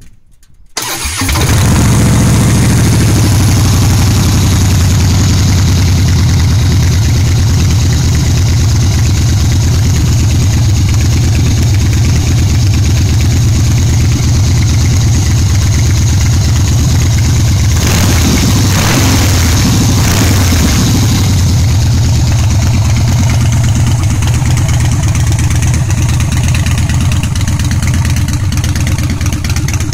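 2014 Harley-Davidson Breakout's V-twin engine starting about a second in, then idling loudly through a full Freedom Performance Amendment exhaust. The engine note picks up briefly about two-thirds of the way through, then settles back to idle.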